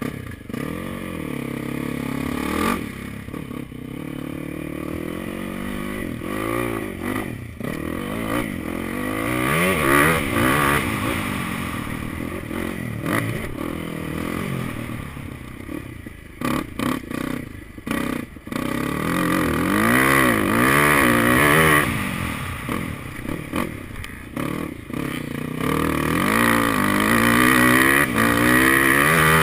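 Motocross motorcycle engine heard from an onboard camera, revving hard and backing off over and over, its pitch rising and falling in repeated sweeps. The sound breaks off briefly a few times a little past the middle, then comes back loudest near the end.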